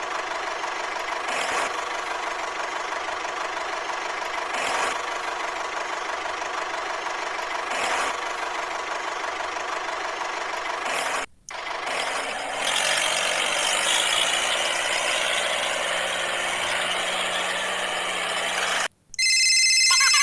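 Small motor of a DIY mini tractor running steadily, broken twice by sudden cuts. After the second cut comes a brief high-pitched squeal.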